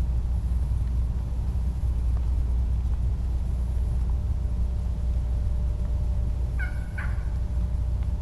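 A steady low rumble over the microphone, with two short turkey yelps close together near the end.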